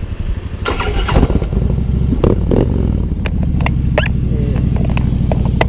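Motorcycle engine running with a steady, pulsing low rumble that grows louder about a second in, with a few sharp clicks over it.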